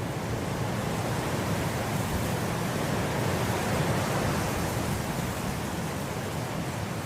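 Wind blowing through grass: a steady rushing that swells toward the middle and then eases slightly.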